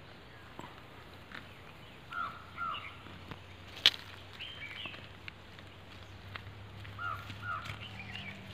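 Birds calling in the background: a short two-note call, heard twice, with higher chirps between. A single sharp click about four seconds in, and a faint steady low hum in the second half.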